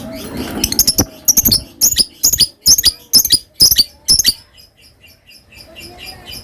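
Lovebird calling: a run of loud, sharp high-pitched shrieks, about two a second, from about a second in until near four seconds, with softer rapid chattering before and after.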